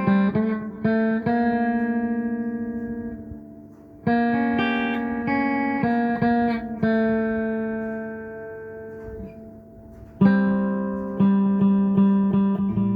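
Background music of a plucked guitar: notes and chords that ring and fade, with new phrases starting about four seconds in and again about ten seconds in.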